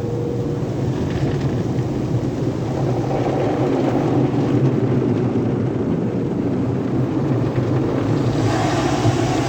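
Automatic car wash tunnel equipment running: a steady, loud rushing noise with a low hum underneath. A hissier spray-like layer joins near the end.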